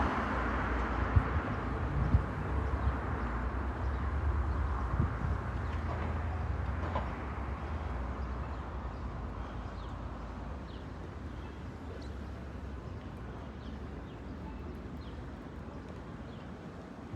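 Boeing 777-300 jet airliner's GE90 engines passing overhead: a wide rushing roar with a deep rumble, loudest at the start and fading away steadily as the aircraft moves off.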